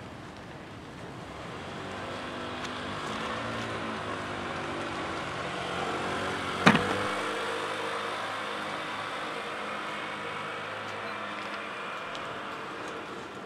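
Heavy truck engine running as it goes by, growing louder towards the middle and then easing off. A single sharp clack about seven seconds in is the loudest sound.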